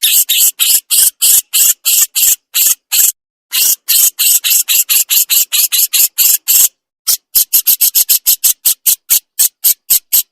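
A jenggot jawa songbird giving its 'besetan' call: rapid, harsh, hissing chatter notes at about four a second. The call comes in three runs broken by short pauses, and the last run is faster.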